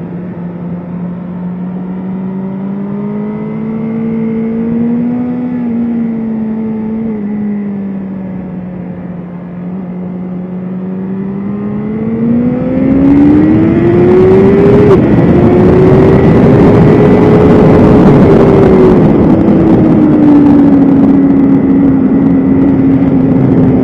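A BMW S1000RR's inline-four engine, heard on board at a steady part throttle. About halfway through it revs up hard and gets much louder, with a short drop in pitch in the climb, holds high revs, then gradually winds down near the end.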